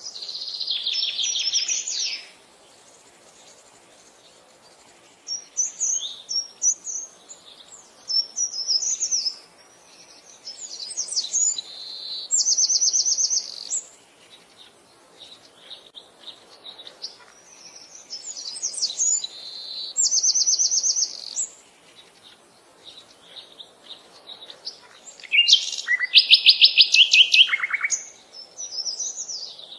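Songbird singing: repeated phrases of quick high chirps, several ending in a fast rapid trill, coming every few seconds. The loudest phrase comes near the end.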